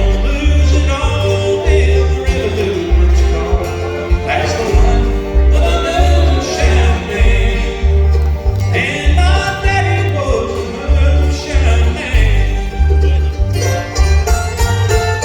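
Bluegrass band playing an instrumental passage, with banjo and guitar over a steady, evenly pulsing bass line.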